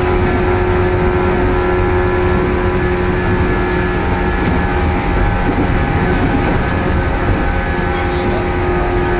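Steady running noise of a moving train heard from inside the passenger car: a loud, even low rumble with a steady hum over it.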